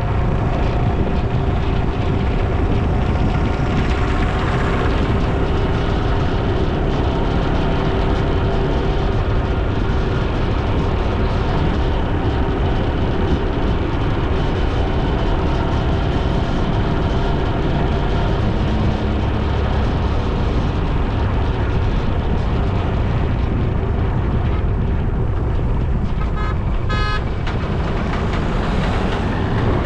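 Road noise on a moving vehicle ride: a steady engine drone over heavy low wind rumble on the microphone, with a brief horn near the end.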